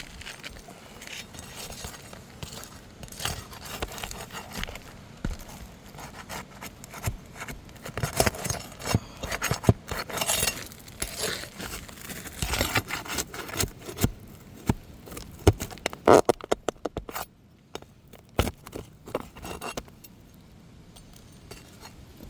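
Flat metal pry bar scraping and clicking against asphalt shingles as they are lifted and their staples worked loose, in irregular scrapes and taps. A quick run of sharp clicks comes about two-thirds of the way through, and it goes quieter near the end.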